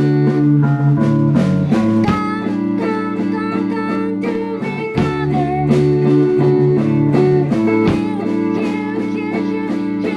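Indie-pop band playing live: guitar chords over sustained low notes, with regular drum hits.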